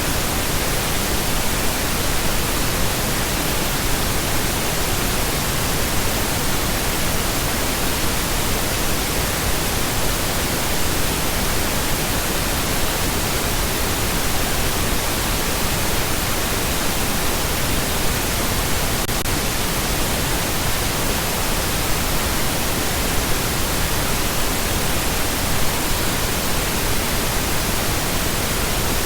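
Steady, unchanging pink noise: an even hiss across the whole range with no breaks or variation.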